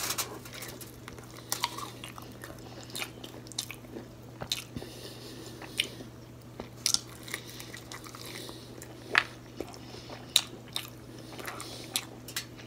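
Close-up eating sounds: biting and chewing crispy battered fried seafood, with scattered sharp crunches and wet mouth clicks at irregular intervals.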